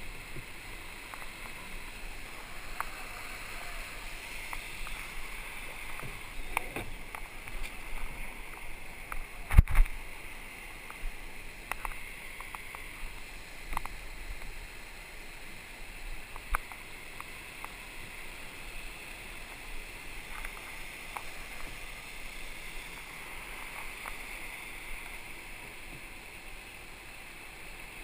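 Water rushing along a surf boat's hull as the crew rows, with scattered short knocks from the oars and one loud thump about ten seconds in.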